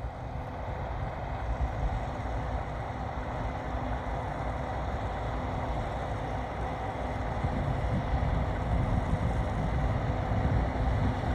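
Case IH 7150 combine harvester running steadily, a continuous machine noise with a constant whine over a low rumble that grows louder in the second half.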